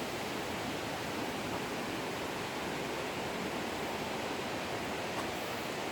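Steady rushing of a fast-flowing creek: an even, unbroken wash of water noise.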